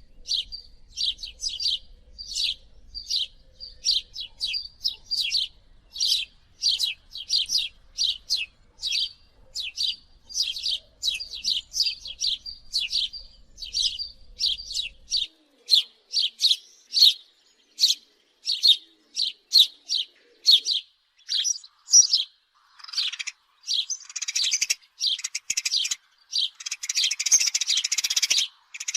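House sparrow chirping over and over, short chirps about two a second, breaking into a denser run of chatter twice near the end.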